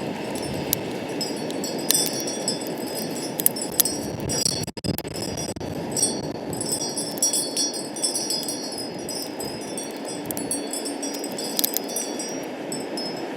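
Wind chimes tinkling irregularly in the wind, high ringing notes over a steady rush of wind.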